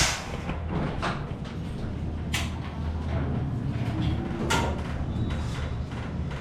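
Building-site work on metal ceiling framing: a few sharp knocks a second or two apart over a steady low hum.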